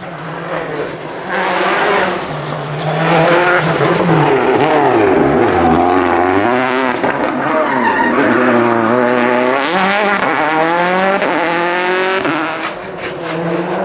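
Rally car engine revving hard on a circuit stage, its pitch climbing and dropping through repeated gear changes, with a deep low dip about six seconds in and several rising sweeps as it accelerates afterwards.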